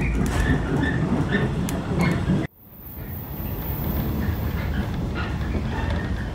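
A Shinano Railway local electric train rumbling along steadily, heard from inside the car, with scattered short squeaks and rattles. The sound cuts out abruptly about two and a half seconds in and fades back up.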